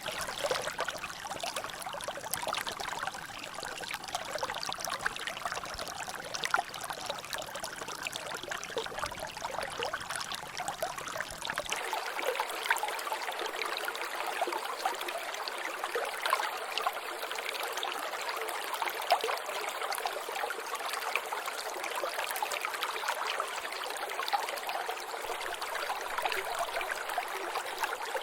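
Water trickling and dripping in a natural drainage: a steady run of water with many small, quick drip and splash ticks. About halfway through, the low rumble under it drops away.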